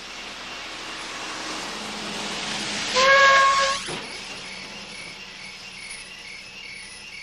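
A hissing rush swells over a few seconds and peaks about three seconds in with a loud, short whistle-like tone of several pitches. The tone stops within a second, leaving crickets chirping in a steady pulse.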